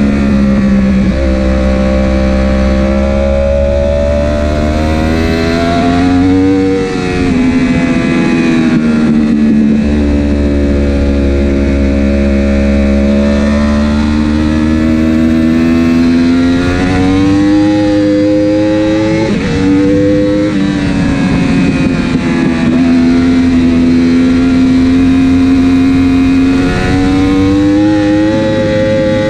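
Superbike engine at racing speed, with the engine note climbing steadily and dropping sharply about 7 and 20 seconds in as it shifts or slows, over a steady low rumble.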